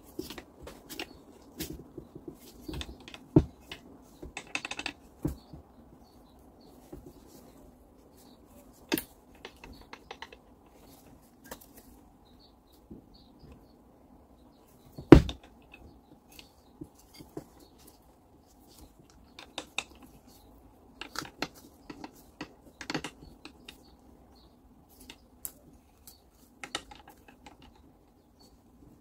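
Scattered light clicks and taps of tools and small metal parts being handled while a Fein angle grinder is taken apart, with one louder knock about halfway through.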